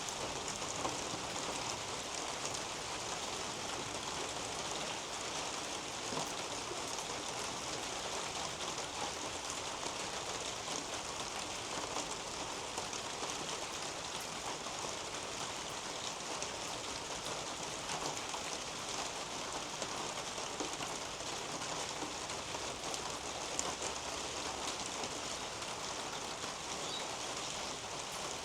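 Steady rain falling on garden foliage overhead: an even hiss dotted with many small drop ticks, holding constant throughout.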